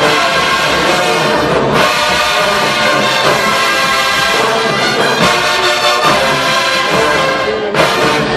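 HBCU marching band playing loud brass-heavy music, horns and trombones to the fore, with brief cutoffs about two seconds in and again near the end.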